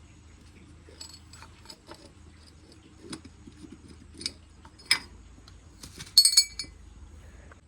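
Small metal parts and tools clinking and tapping in light, scattered clicks, with a short burst of louder ringing clinks about six seconds in.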